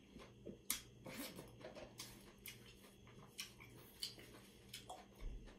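Quiet eating sounds: faint chewing and mouth clicks with soft rustles from handling food and a paper napkin, over a low steady hum.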